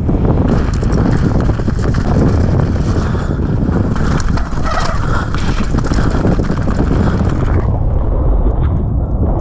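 Heavy wind buffeting on an action camera's microphone during a fast mountain-bike descent, mixed with the clatter and knocks of a Canyon Strive AL 5.0 full-suspension bike and its tyres on a rough, wet trail. The high hiss drops away sharply about three quarters of the way through.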